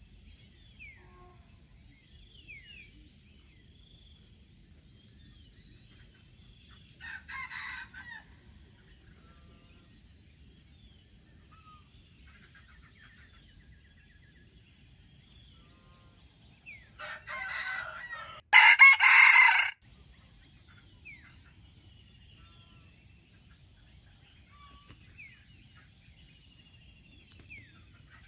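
Rooster crowing three times: a faint crow about seven seconds in, then two crows near the end of the second third, the last one close and loud. A steady high insect buzz and small bird chirps run underneath.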